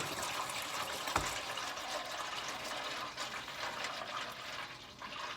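Engine oil pouring from the drain hole of a 1980 Toyota pickup's oil pan into a catch pan: a steady splashing stream, just after the drain plug has come out. A single knock sounds about a second in.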